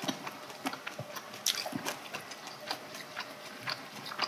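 People chewing food, heard up close through clip-on microphones: a string of irregular wet mouth clicks and smacks, with a couple of sharper clicks about a second and a half in.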